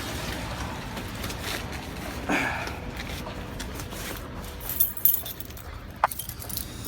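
VAZ-2101 engine running at idle on choke, with a short rustle about two and a half seconds in and a sharp click near the end.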